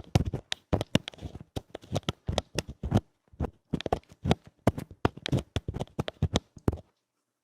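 Rough ASMR ear-cleaning sounds: fast, irregular scratching and scraping at a microphone's ear, a dense run of crackly strokes that stops suddenly about seven seconds in.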